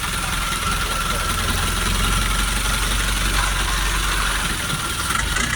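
Boat engine running steadily at low speed, a constant hum with a hiss of noise over it.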